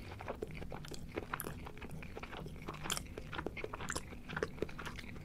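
A person chewing a mouthful of rice, with many small wet smacks and clicks coming several times a second.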